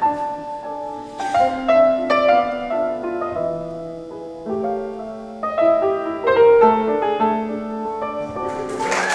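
Solo piano playing a slow melody over chords, each note struck and fading. Applause breaks out right at the end.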